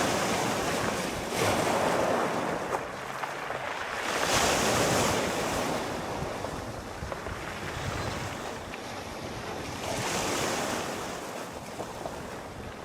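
Sea waves washing in and drawing back, the surf swelling and fading about four times, loudest near the start and around four to five seconds in, with wind.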